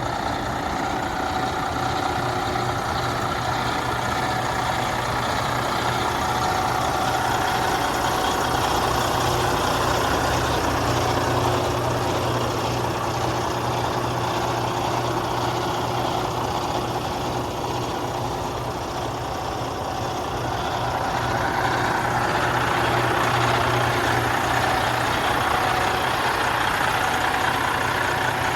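Heavy diesel truck engine, the Western Star's Detroit DD15, idling steadily; it eases a little about two-thirds of the way through, then swells again.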